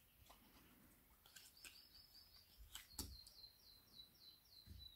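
Near silence with a bird chirping faintly in the background: two runs of quick, high, repeated chirps, the second longer and running into the end. A few faint clicks, the sharpest about three seconds in.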